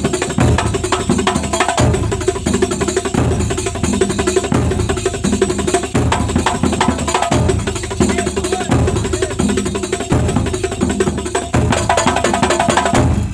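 Kuntulan percussion ensemble playing: rebana frame drums and other hand drums beating a fast, dense rhythm, with a deep drum stroke about every second and a half. The playing stops just at the end.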